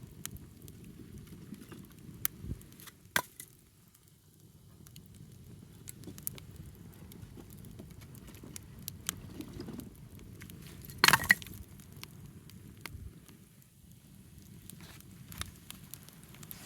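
Wood fire burning, with scattered sharp crackles and pops over a steady low noise; the loudest cluster of pops comes about eleven seconds in.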